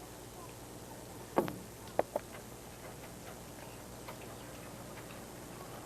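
A few sharp clicks or taps, one about a second and a half in and two close together about two seconds in, over a faint steady hum.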